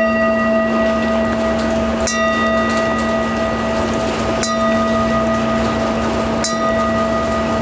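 A steady humming drone holding several fixed tones over an even rain-like hiss, with a bright chime-like strike ringing out three times, about every two seconds.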